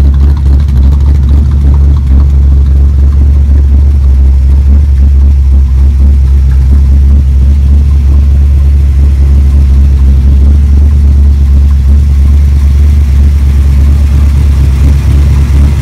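383 small-block Chevy V8 idling steadily, a loud, even, low exhaust note.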